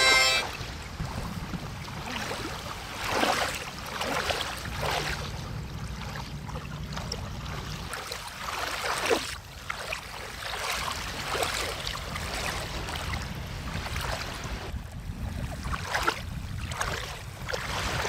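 Water sloshing and splashing in irregular swells every second or two over a low steady rumble.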